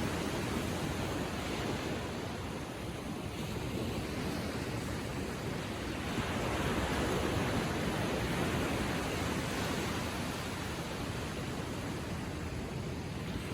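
Gentle ocean waves lapping and washing onto a beach: a steady surf hiss that swells a little about six seconds in and eases off again.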